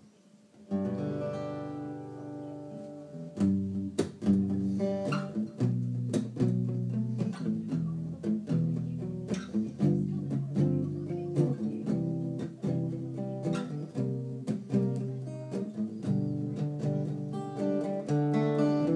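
Acoustic guitar playing a song's introduction: a chord is struck and left to ring, then a steady rhythmic strummed accompaniment begins about three and a half seconds in.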